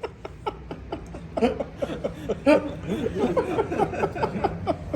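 Chatter of several overlapping voices with chuckling and laughter.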